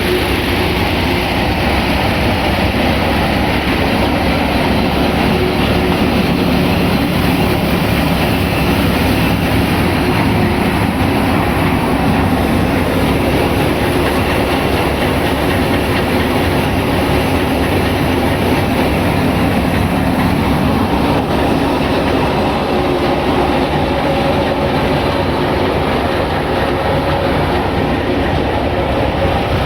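Tractor engine running steadily while driving a thresher, mixed with the thresher's even mechanical clatter, with no change in speed or load.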